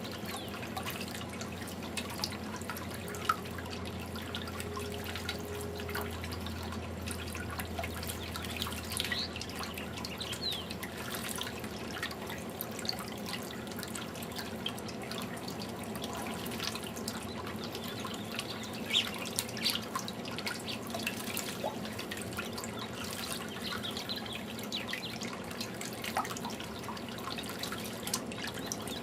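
Water from a garden fountain dripping and trickling steadily, with scattered short, sharp high-pitched sounds throughout. A low hum sits under it for roughly the first third.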